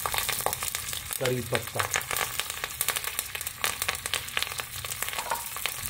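Fresh curry leaves and mustard seeds sizzling in hot oil in a small pan for a tempering, crackling with many sharp pops as they are stirred.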